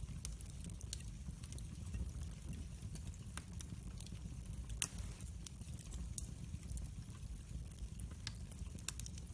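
Campfire burning with a steady low rumble and irregular crackles, and one sharp pop about five seconds in.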